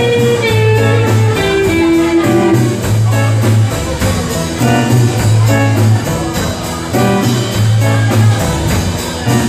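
Live rock band playing an instrumental passage: an electric guitar lead with bent notes over a repeating bass figure and a steady cymbal beat.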